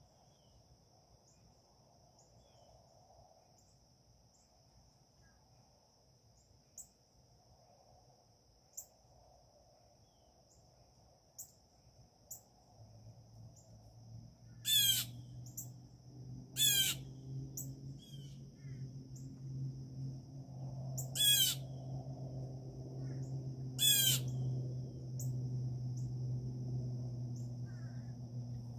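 Wild birds calling, with four loud, short, harsh calls in the second half, each sweeping down in pitch. Beneath them runs a steady faint high-pitched drone, and a low hum comes in about halfway and grows louder.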